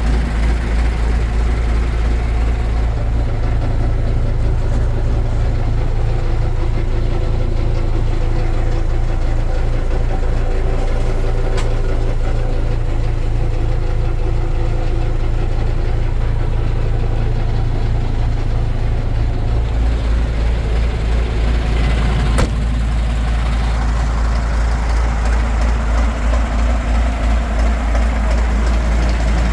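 Diesel engine of a 1986 MAN M1001 8x8 military truck, a 10-cylinder, running steadily at idle, with a single sharp click about two-thirds of the way through.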